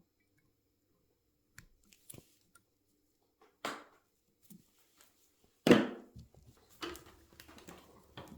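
Motorcycle brake caliper being reassembled by hand: a few light metal clicks, then one loud clunk a little past halfway and a run of smaller knocks and rattles near the end.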